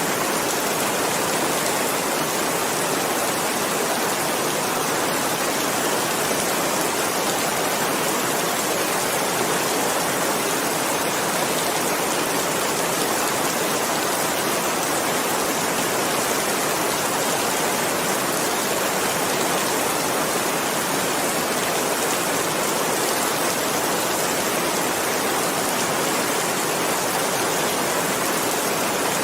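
Steady, heavy rainfall, an even rushing hiss of countless drops with no individual drops or thunder standing out.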